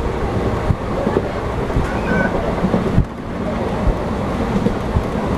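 Passenger train running at speed: a steady rush of wheel, rail and wind noise, broken by irregular short knocks from the wheels and running gear.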